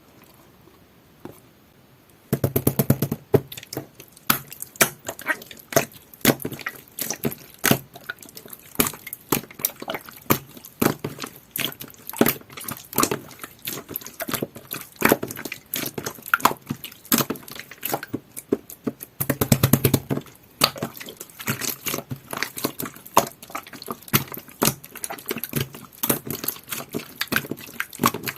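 Jelly-textured clear slime being squished and pressed by hand, giving a dense, irregular run of wet clicks and pops that starts about two seconds in.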